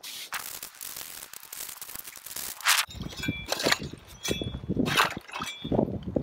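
Ice being worked to reopen a hole in a frozen lake: a long scraping hiss, then a run of crunching strokes about every half second or so, with ice pieces clinking.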